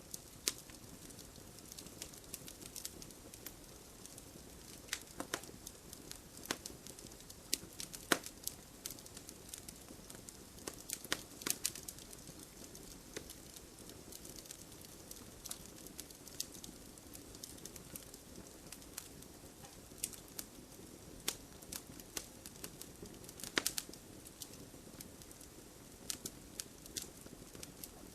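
Wood fire burning in a fireplace, crackling steadily with irregular sharp pops and snaps, a few louder than the rest, over a soft hiss of flame.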